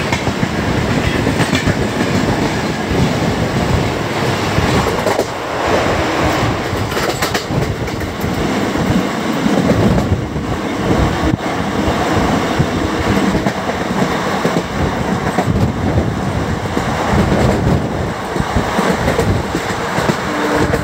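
Passenger express train running, with steady wheel-on-rail noise and coach rattle heard from on board.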